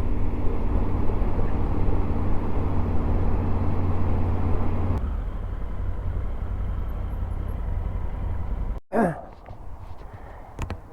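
Motorcycle engine running at a steady speed on the road, with wind rushing over the microphone. It cuts off abruptly near the end, leaving a brief vocal sound and a few light clicks in a quieter background.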